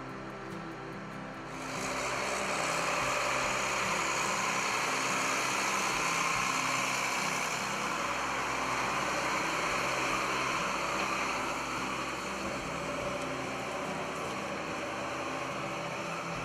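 Case IH STX435 tractor's diesel engine running steadily, growing louder about two seconds in and then holding even.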